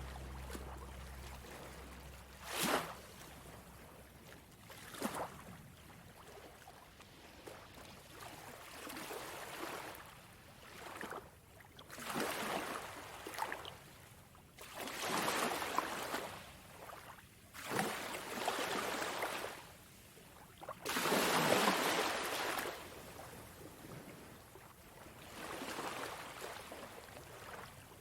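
Small sea waves washing onto a sandy beach, each surge swelling and fading every two to three seconds, with one longer, louder wash near the end.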